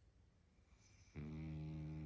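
A sleeping pug snoring: one loud, steady, low snore lasting just under a second, starting a little past halfway through.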